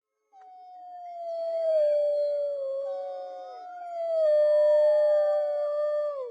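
Several wolves howling together: long, drawn-out howls that slide slowly down in pitch, a second, higher howl joining about three seconds in, the voices overlapping, and the sound breaking off abruptly at the end.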